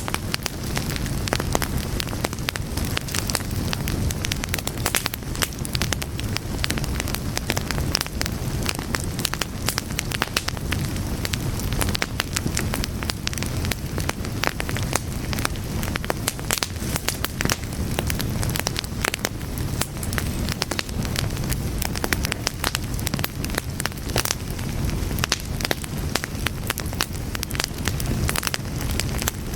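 Fire burning steadily, with a continuous low rumble of flames and frequent irregular sharp crackles and pops.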